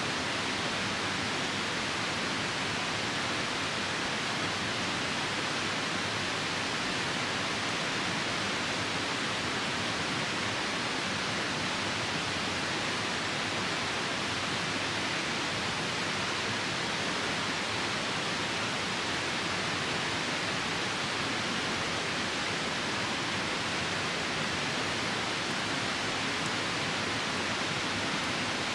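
Steady rushing noise of a nearby river mixed with falling rain, even and unbroken.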